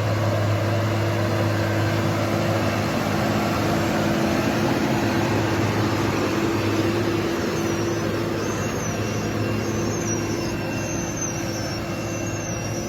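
Farm tractor engine running steadily, with a constant low drone and a wide mechanical noise. Faint high chirps come in over it in the second half.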